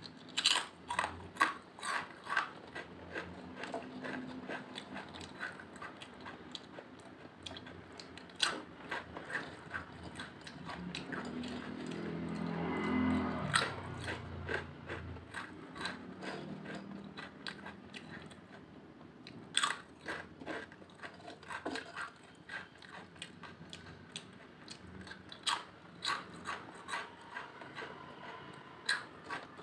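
Close-miked crunching of crisp potato chips being bitten and chewed, in runs of sharp crunches near the start, around nine seconds in, around twenty seconds and again near the end. A louder low sound swells and fades about halfway through.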